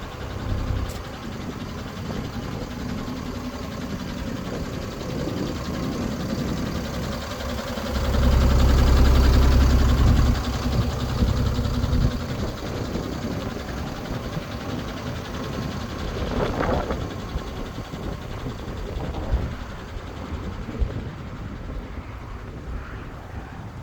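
IVECO Eurocargo 120E25 truck's six-cylinder diesel engine running at idle, turning much louder and deeper for about four seconds about a third of the way in.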